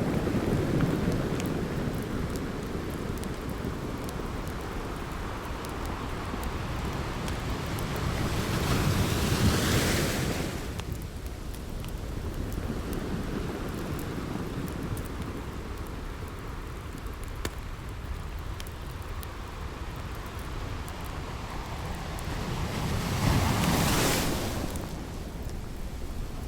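Ocean waves washing onto a beach, with two waves building and breaking, one about a third of the way in and one near the end, over faint scattered crackles of a campfire.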